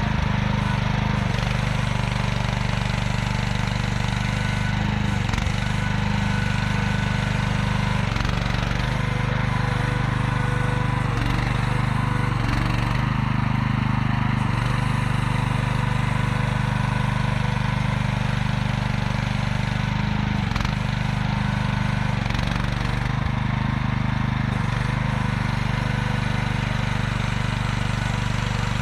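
The small engine of an AGT QH12R mini excavator running steadily, with a few faint knocks scattered through it.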